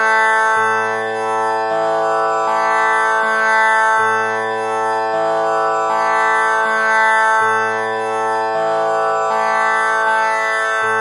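Tanpura drone tuned to A, its strings plucked one after another in a steady repeating cycle, each note ringing on into the next.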